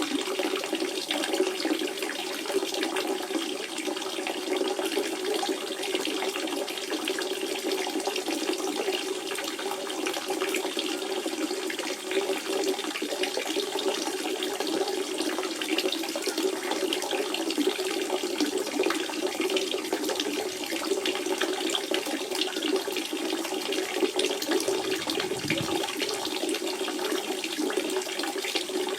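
Spring water running and splashing steadily, a continuous bubbling flow with a lower rushing note and fine trickling above it.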